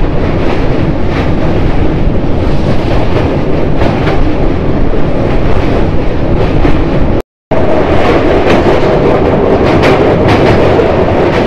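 Express train running at speed: a loud, steady rumble and rattle of wheels on the track. It cuts out for a moment about seven seconds in.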